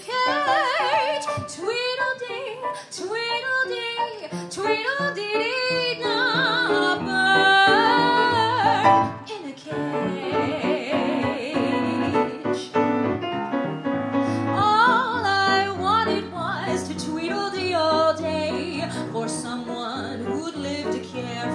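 A woman singing a musical-theatre song over piano accompaniment, in long, high notes with wide vibrato. The voice drops out for a few seconds near the middle, where the accompaniment carries on alone, then returns.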